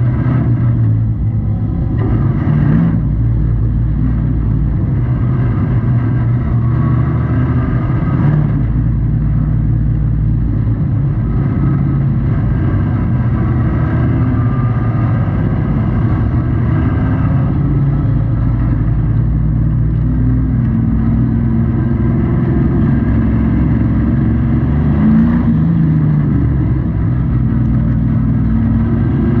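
A race truck's engine heard from inside the cab, running loud and continuously at racing speed. Its pitch rises and falls with the throttle through the corners.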